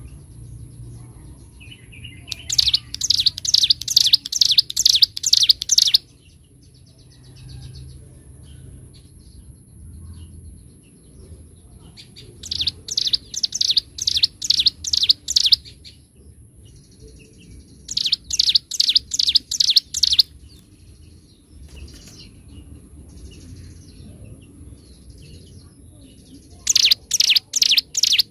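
Ciblek gunung (mountain prinia) singing: four loud runs of fast, rapidly repeated high chirping notes, each lasting two to four seconds, with softer scattered chirps between them. A faint steady high-pitched tone sits under the whole recording.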